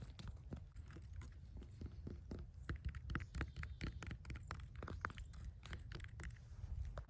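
Dense, irregular crackling and clicking close to the microphone, over a steady low rumble.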